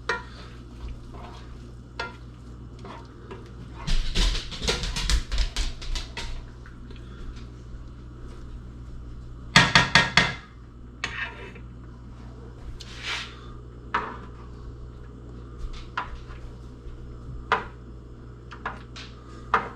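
Dishes and cutlery clinking and clattering in scattered knocks, with two busier bursts, about four seconds in and about halfway through, over a steady low hum.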